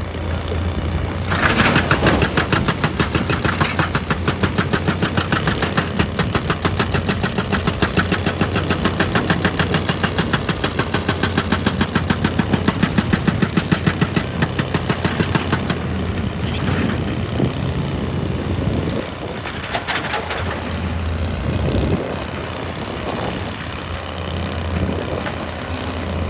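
An excavator's diesel engine runs while its hydraulic rock breaker hammers rock in a fast, even pounding from about a second in to roughly halfway. The hammering then stops, leaving the engine running with a few separate knocks near the end.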